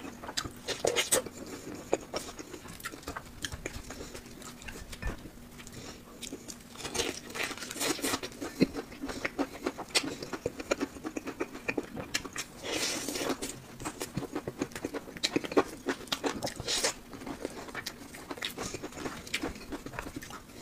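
Close-miked chewing of crispy fried chicken and nuggets: wet mouth clicks and irregular crunches, with louder spells of crunching about seven seconds in and again about thirteen seconds in.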